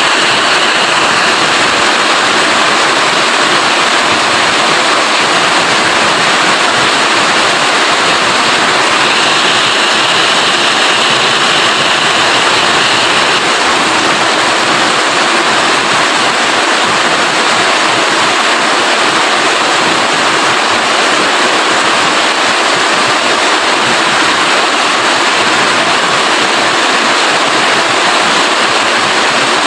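Steady heavy rain, a dense, even hiss.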